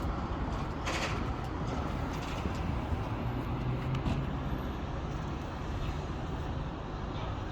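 Heavy construction machinery running with a steady low engine rumble, and a brief hiss about a second in.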